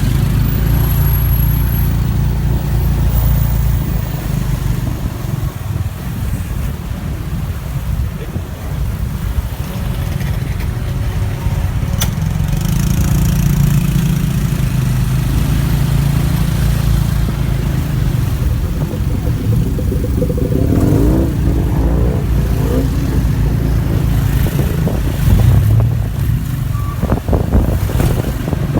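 Motorbike engine running during a ride through city traffic, with steady road and wind noise. About three-quarters of the way through, a sound rises and falls in pitch.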